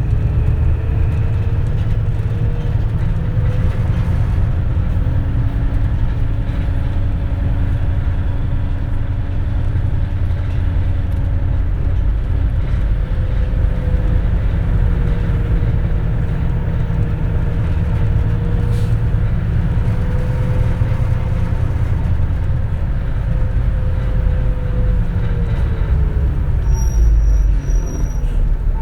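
Inside a 2004 CNG-engined city bus under way: a steady heavy engine and road rumble, with a drivetrain whine that rises as the bus picks up speed, holds steady, then falls near the end as it slows. A short high-pitched electronic beep sounds just before the end.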